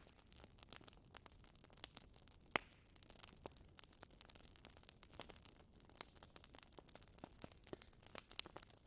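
Wood fire crackling in a fireplace: faint, irregular snaps and pops, with one sharper pop about two and a half seconds in.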